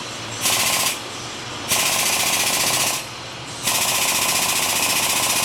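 Powered drive of an Omni Arm landing-gear handling rig running in three short bursts, a rapid rattling buzz switched on and off as the arm is jogged down. Each burst is longer than the one before.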